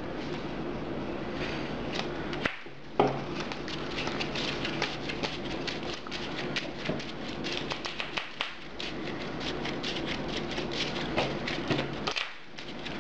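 Trading cards being handled and shuffled on a table: a dense run of quick, soft clicks and crackles, with one sharp knock about three seconds in and a brief pause near the end. A steady low hum runs underneath.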